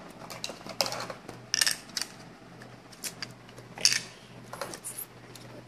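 Scattered light clicks and taps of small hard objects being handled, about half a dozen of them a second or so apart.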